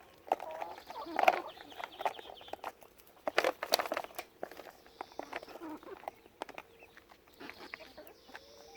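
Silkie chickens clucking in short, scattered calls, with many sharp little taps among them.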